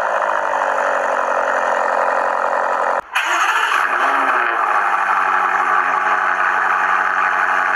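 BMW M5 engine running steadily, then a cut about three seconds in to another M5 engine that starts up, flares in revs and settles into a steady idle.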